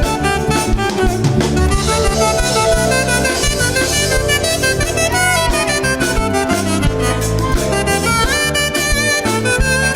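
Instrumental music from a worship band playing between sung verses, with a melodic lead over a steady beat.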